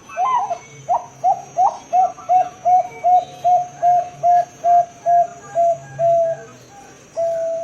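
Zebra dove (perkutut, Bangkok strain) cooing: a few uneven rising notes, then a run of short even coos at about two and a half a second, ending in one longer held note.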